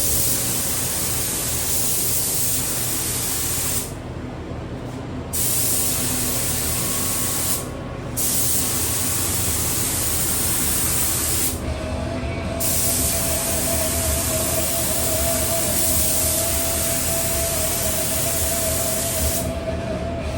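Paint spray gun hissing as it lays down clear coat, the airflow cutting off briefly three times and again near the end as the trigger is released between passes. A faint steady whistle joins partway through.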